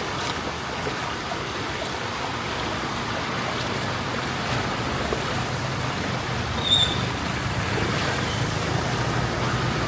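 Steady wash of water from traffic driving through a flooded street, with a vehicle engine's hum growing louder toward the end. A brief high chirp sounds about two-thirds of the way through.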